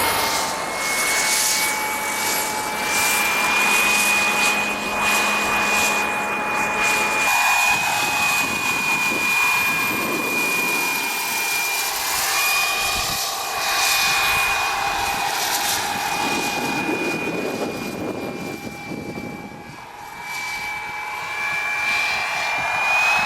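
The WREN gas turbine of a 1:4 scale Lama SA 315B model helicopter running, a steady high whine that wavers slightly in pitch over a rushing noise. Its loudness swells and fades, dipping briefly near the end.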